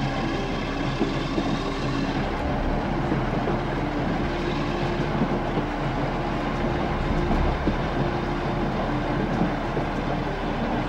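A passenger train running along the line, a steady running noise with a faint droning tone.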